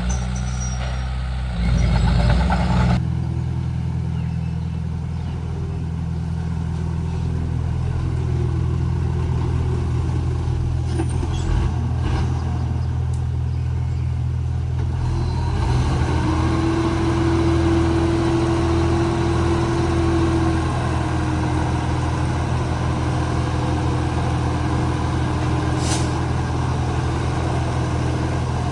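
Komatsu D31P bulldozer's diesel engine running steadily at work, with a brief louder surge near the start. A steady whine joins in about halfway through and then fades.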